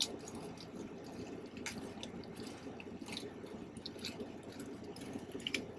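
Small plastic parts bags and packaging being handled and opened: soft crinkling with scattered light clicks and ticks.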